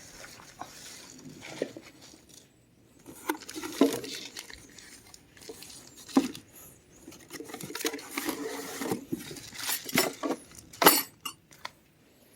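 Hard objects being handled and set down while unpacking: scattered clinks, clicks and knocks with rustling between them, busiest about four seconds in and again from about seven to eleven seconds.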